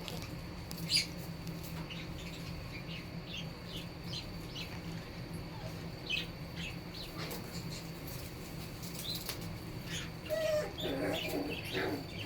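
Young corgi puppies making small high squeaks and chirps here and there, with a short burst of whimpering about ten seconds in.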